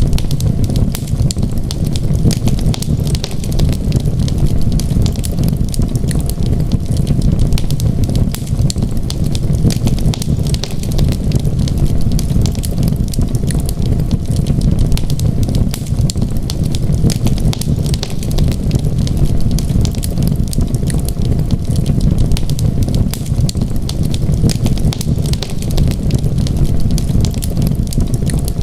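Wood fire crackling steadily, with dense irregular pops and snaps over a constant low rumble.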